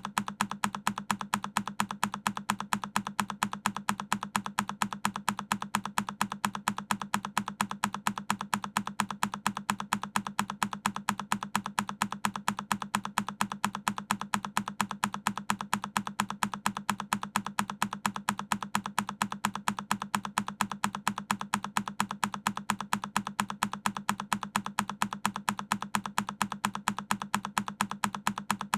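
A single key press on a Keychron K10 mechanical keyboard, looped: the same click repeats over and over at a fast, even rate.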